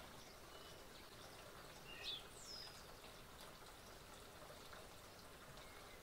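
Faint steady outdoor background hiss with a few short, high bird calls about two seconds in: a quick rising chirp followed by a falling sweep.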